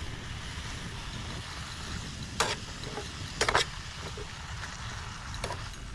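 Vegetables frying in a pan with a steady sizzle, and a few short scrapes of a spoon or spatula against the pan a little past halfway as they are stirred.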